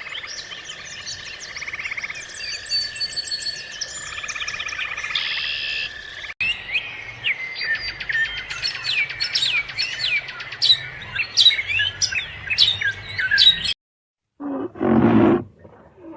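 Birds chirping and calling in a dense chorus of trills and whistles. About six seconds in it cuts to another bird recording of rising whistled calls and sharp clicks, which stops near the end, and a deeper animal call begins.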